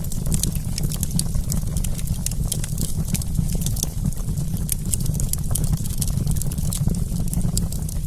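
Wood campfire crackling, with many small irregular pops and snaps over a steady low rumble.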